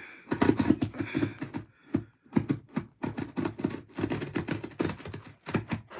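Hands working at a package to open it: a quick, irregular run of scratching, scraping and small knocks.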